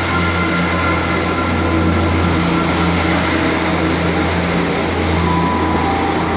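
A diesel train running steadily: a loud, constant low hum with a few steady higher tones over it.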